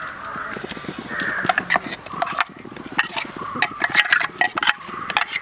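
Ground masala paste being poured and scraped out into an uruli, with a run of quick clicks and taps of a utensil against the vessels from about a second and a half in.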